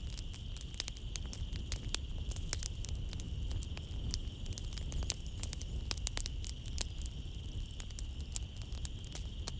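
Wood fire crackling in a fireplace: frequent irregular sharp pops and snaps over a low steady rumble of the flames. A steady high-pitched insect trill, like night crickets, runs behind it.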